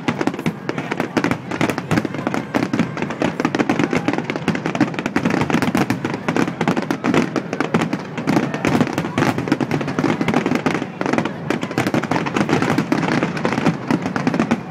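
Fireworks display: a dense, unbroken barrage of rapid bangs and crackling.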